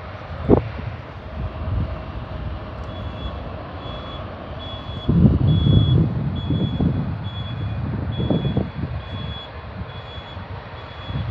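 A vehicle's reversing alarm beeping steadily, about two high beeps a second, starting a few seconds in. Low rumbling swells in the middle underneath it.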